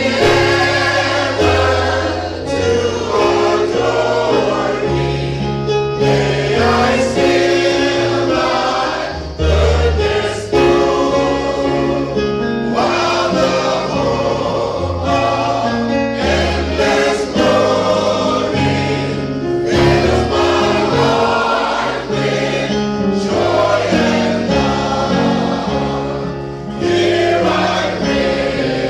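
Gospel choir singing with instrumental accompaniment and a moving bass line.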